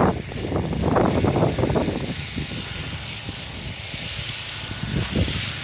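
Blizzard wind blowing over the microphone: a steady hiss with heavy low buffeting gusts, the strongest in the first two seconds and another about five seconds in.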